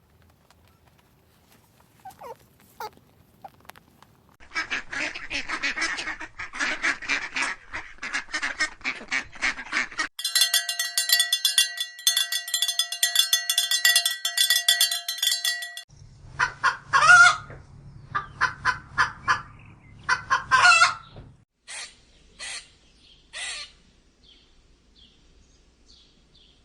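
Fowl calling in a run of short clips: dense flock chatter, then a steady held tone for about six seconds, then loud honks and squawks, the last three spaced apart.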